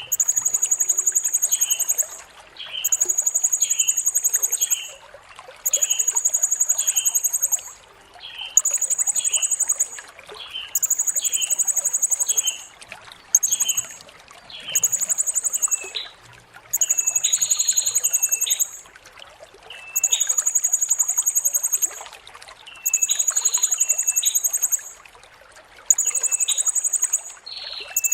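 Blue-crowned hanging parrot (serindit) singing: a long run of very high, buzzing trills, each about one and a half to two seconds long, repeated about a dozen times with short breaks, and short lower chirps in between.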